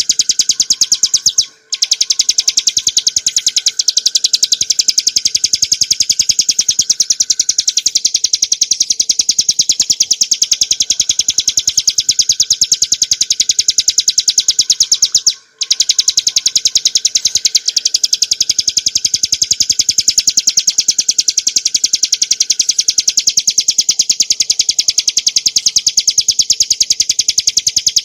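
Ciblek gunung (a small prinia) singing a long, rapid, high-pitched trill of fast repeated notes. The song breaks off briefly about a second and a half in and again about halfway through.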